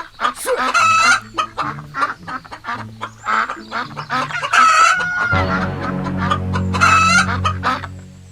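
Chickens clucking and a rooster crowing, several separate calls, one of them long and held. A low steady hum comes in under them about five seconds in.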